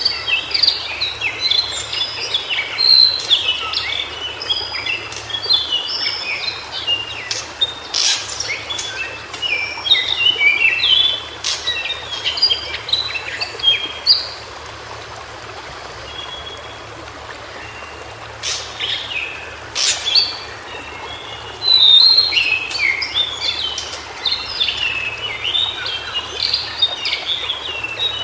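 White-browed shortwing singing: rapid, jumbled, warbling phrases of high notes, with a lull of several seconds near the middle before the song resumes. A few sharp clicks are heard here and there.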